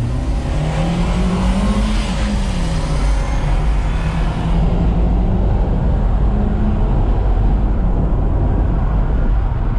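Volkswagen Saveiro pickup engine heard from inside the cabin, accelerating hard. Its pitch climbs over the first two seconds, drops back at a gear change, then climbs slowly again and holds.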